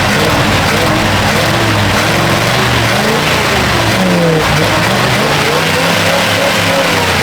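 Old Chevy C10 pickup's 350 small-block V8 running, its engine speed rising and falling a few times as it is revved.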